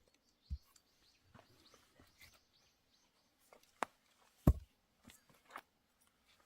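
Axe blows on a firewood log that will not split: a few light knocks and one heavy strike about two-thirds of the way through, the axe bouncing off rather than splitting the wood. Faint birdsong behind.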